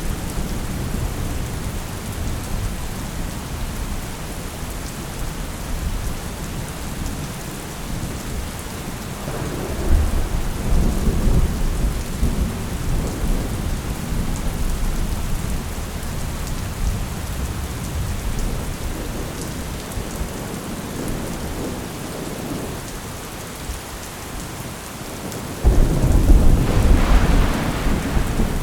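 Steady rain with rumbling thunder: a long low rumble swells about ten seconds in, and a sudden, louder thunderclap breaks near the end.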